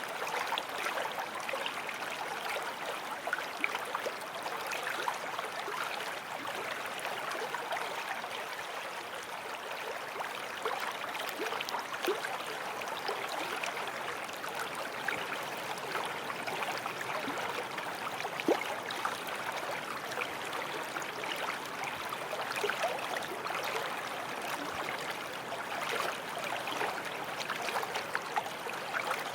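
Small forest stream flowing over stones: a steady rush of water with busy bubbling and gurgling.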